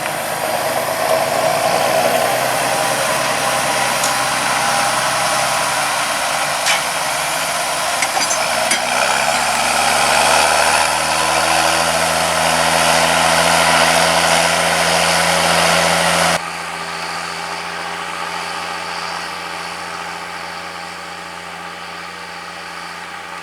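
John Deere 6520 tractor's six-cylinder diesel engine running. Its note shifts in pitch about nine seconds in. About sixteen seconds in it drops suddenly to a quieter, steadier note that slowly fades.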